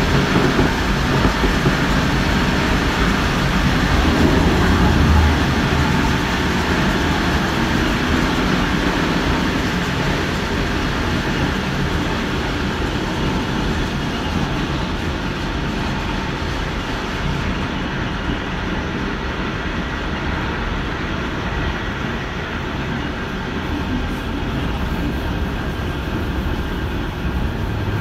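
Electric passenger train running along the track, heard on board: a steady rumble of wheels on rail with some clickety-clack. It is a little louder in the first few seconds, then eases slightly.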